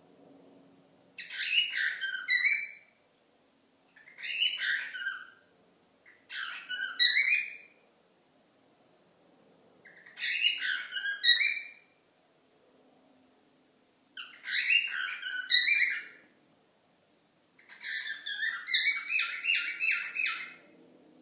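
Cockatiel calling in six bouts of quick chirps and short whistled glides, each bout one to three seconds long with pauses between; the last bout, near the end, is the longest.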